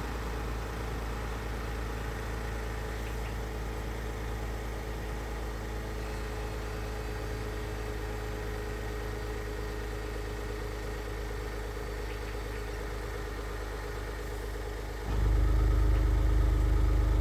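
Maserati Levante GranSport SQ4's twin-turbo V6 running steadily at an unchanging engine speed. About two seconds before the end it suddenly becomes louder and deeper and stays that way.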